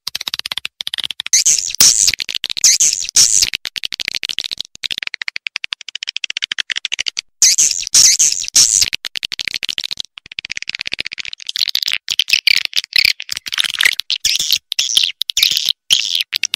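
Edible-nest swiftlets calling in fast, high-pitched chattering twitters, phrase after phrase with only brief breaks, as played on a swiftlet-house lure track.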